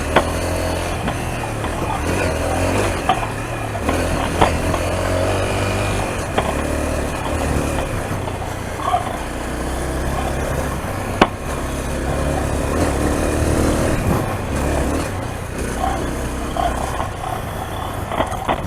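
Honda CRF dual-sport motorcycle's single-cylinder four-stroke engine running under way on a dirt track, the throttle opening and closing several times, with rushing wind noise and a few sharp knocks.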